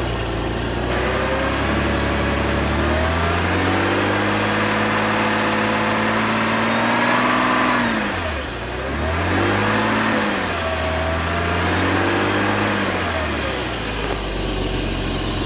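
Porsche 986 Boxster's flat-six engine, at running temperature, revved through its cable-operated throttle: it rises from idle and holds higher revs for about five seconds, drops briefly, then is revved and held again for about three seconds before settling back to idle.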